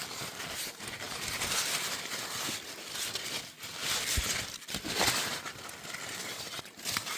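Continuous rustling and crinkling that swells and dips irregularly, from leaves and branches being handled while fruit is picked.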